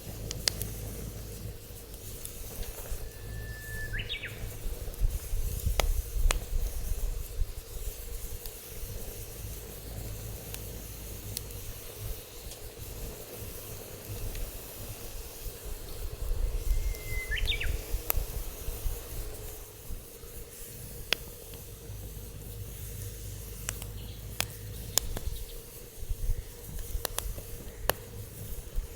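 Wood fire burning, crackling with scattered sharp pops, over a low rumble of wind on the microphone. A bird chirps twice, about four seconds in and again about seventeen seconds in.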